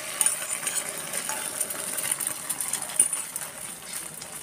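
Beaten egg poured into hot oil in an iron karahi, sizzling and crackling with many small spits as the omelette fries.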